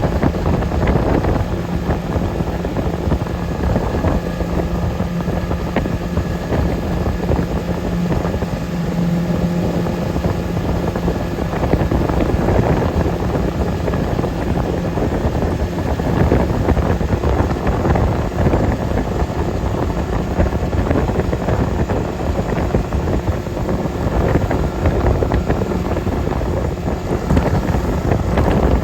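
Motorboat engine running steadily, with wind buffeting the microphone; a low engine tone is plain for the first dozen seconds, then sinks into the wind and water noise.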